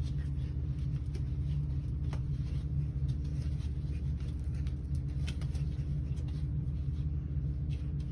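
Steady low mechanical hum with a few faint clicks and rustles.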